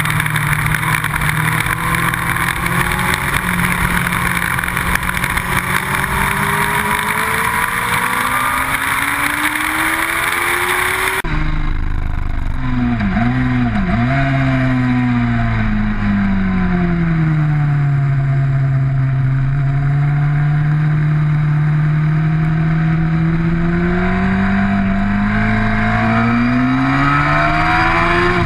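Sport motorcycle engine at speed on a race track, heard from on board with heavy wind noise on the microphone. About eleven seconds in the sound switches abruptly to another bike: its engine pitch drops sharply twice, as on downshifts into a corner, holds low, then climbs again near the end as it accelerates.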